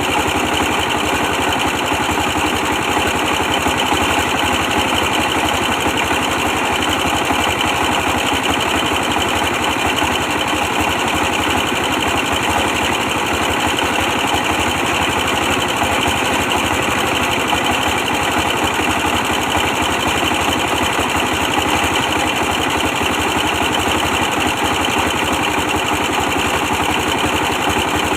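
24 hp diesel engine running steadily at an even speed, powering a brick press.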